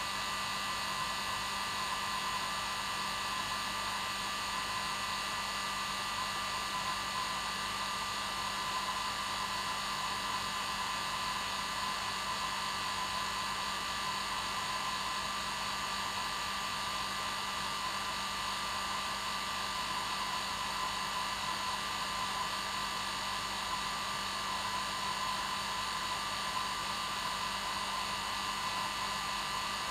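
Electric hair dryer running steadily on its normal setting: an even rushing of air with a fixed motor hum and whine that never changes.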